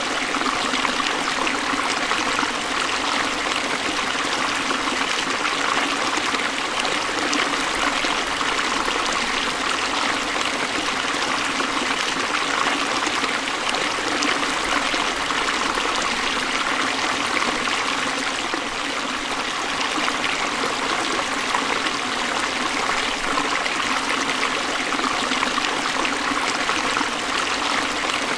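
Forest stream flowing over rocks: a steady rush and babble of water.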